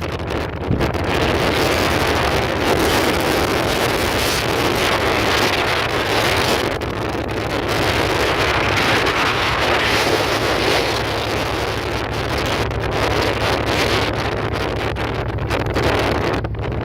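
Wind rushing over the microphone while riding a motorcycle at speed, with the motorcycle's engine running steadily underneath. The wind rush eases briefly near the start and again near the end.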